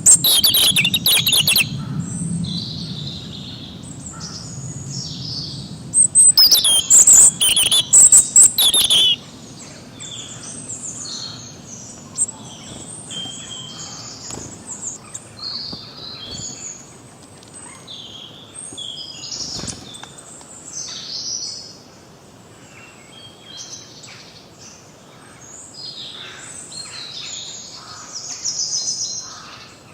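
A chorus of many forest songbirds chirping and singing, with two loud bursts of rapid chattering close by, one at the very start and one about six to nine seconds in.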